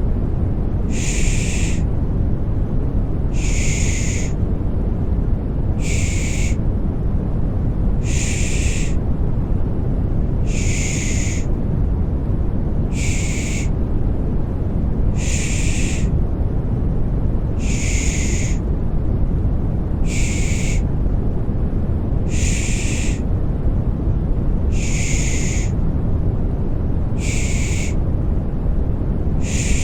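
A rhythmic 'shh' shushing sound to soothe a baby, one soft hiss about every two seconds, repeating evenly. Under it runs a steady, low, rumbling white noise.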